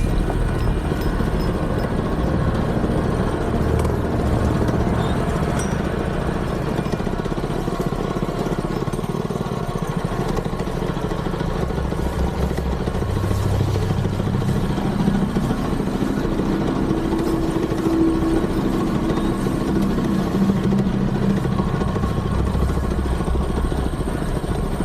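Small mini bike engine running, its pitch rising and falling as the throttle changes.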